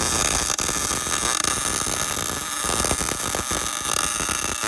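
Electric arc welder crackling and hissing steadily while welding up an open differential's spider gears to lock it.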